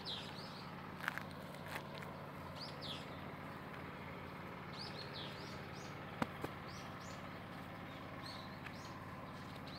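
Small birds chirping: short, high, falling chirps every second or two over a steady low background hum, with a few faint clicks.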